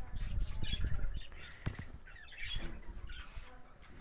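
Caged pet birds chirping and squawking, with short high calls scattered through. A low rumble and a few knocks of something being handled in the first second or so.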